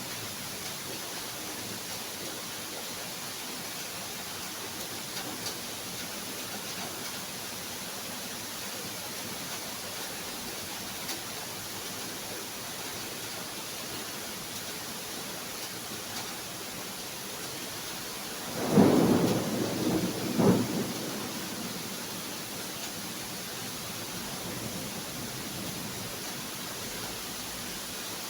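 Steady rain falling, with a single crack of thunder about two-thirds of the way through. The thunder swells twice, the second peak about a second and a half after the first, then dies back into the rain.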